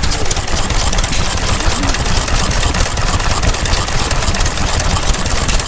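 A vintage stationary engine running steadily.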